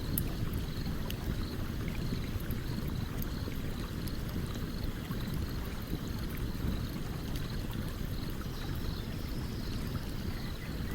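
A stream's steady low rushing, with sparse small crackles and pops from a campfire over it. A faint high ticking repeats about twice a second.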